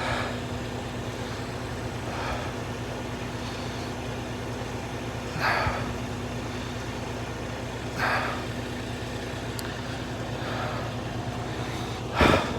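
Diesel truck engine idling with a steady low hum. Five short rustling bursts break over it a few seconds apart.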